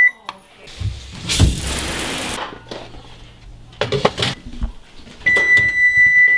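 Rustling and knocking handling noise, then a single steady high electronic beep held for about a second near the end.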